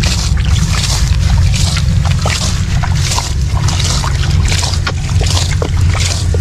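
A steady low motor drone under rhythmic water splashing, about two splashes a second.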